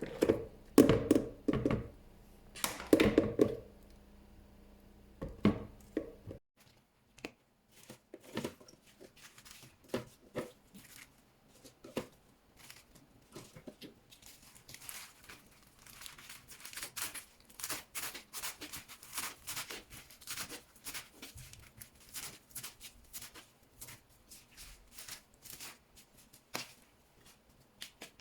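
Hands-on handling sounds: a scattered run of short, light clicks, taps and rustles, with tearing or crinkling of paper or plastic. A faint steady hum under the first few seconds stops about six seconds in.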